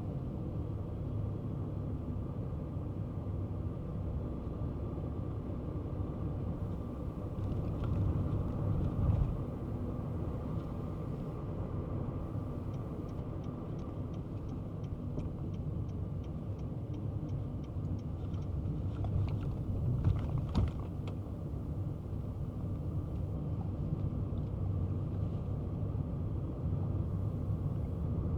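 Kei car on the move: steady low rumble of engine and road noise, with a couple of louder bumps. About halfway through comes a few seconds of faint, quick, evenly spaced ticking, about three a second.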